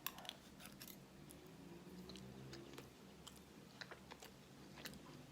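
Faint chewing with small, irregular mouth clicks close to the microphone, over a faint low hum.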